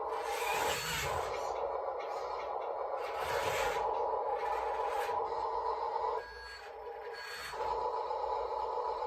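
Small electric motors and gearing of radio-controlled model construction machines running with a steady whine, with repeated rough scraping over dirt as the models work. The whine cuts out about six seconds in and starts again a second and a half later.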